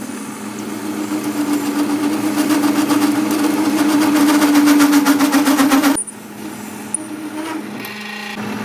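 A motor-driven machine running with a steady hum and fast, even pulsing, cutting off suddenly about six seconds in, followed by quieter, irregular mechanical sound.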